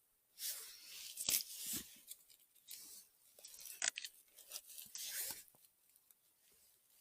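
Irregular rustling and tearing of forest litter and a picked mushroom being handled, with a few sharp snaps in the first four seconds.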